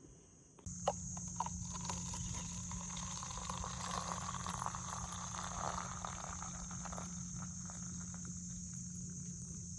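A steady high insect shrill, like crickets, over a low steady hum, both setting in abruptly about a second in, with a few knocks near the start.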